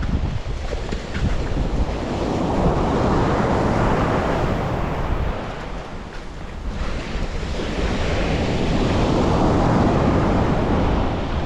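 Sea waves breaking and washing up the shore, swelling twice, with wind rumbling on the microphone.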